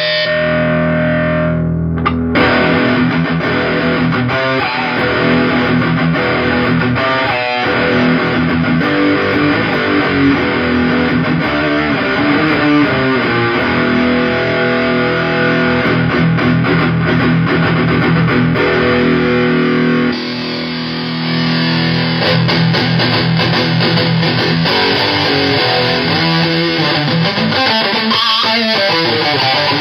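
Heavily fuzzed electric guitar riffing through solid-state amp heads, an Orange Super Crush 100 and a Hughes & Kettner Black Spirit 200, driven by a Fuzzimp Shroot into a Super Cool Pedals 77 Fuzz Blender. About twenty seconds in the tone changes abruptly, as the signal is switched from one amp to the other.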